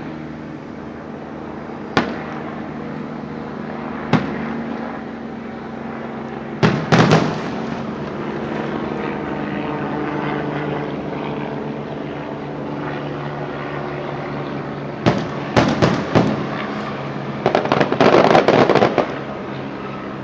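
Aerial fireworks going off: single bangs about two and four seconds in, a quick cluster near seven seconds, a run of bangs around fifteen to sixteen seconds, and a dense crackling salvo near eighteen seconds. A steady low hum runs underneath.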